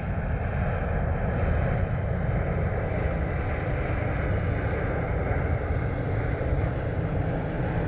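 Gusting wind buffeting the microphone: a steady, fluttering low rumble.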